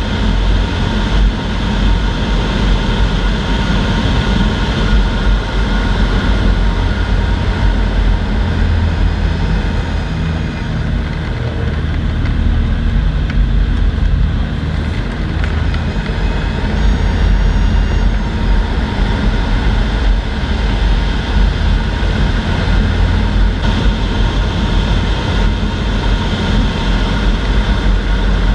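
Cessna 152 Aerobat's four-cylinder Lycoming O-235 engine and propeller running steadily in flight, with the noise dipping slightly about halfway through.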